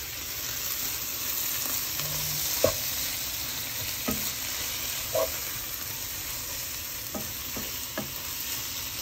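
Sliced onions and ground spices sizzling in mustard oil in a pot while being stirred with a wooden spatula, which knocks and scrapes against the pot a few times.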